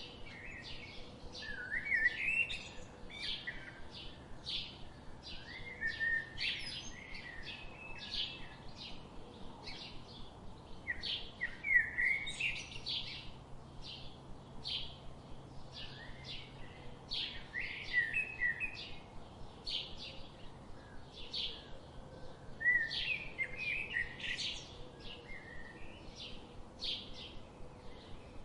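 Birdsong from several birds: a steady run of short, high chirps two or three times a second, with a lower warbling phrase breaking in every few seconds.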